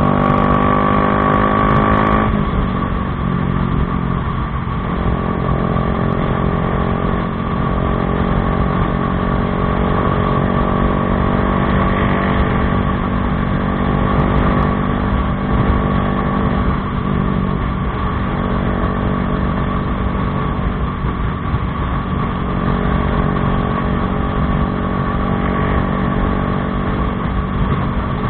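Bajaj Dominar 400's single-cylinder engine running through an Akrapovič exhaust, its note changing abruptly about two seconds in, then holding fairly steady.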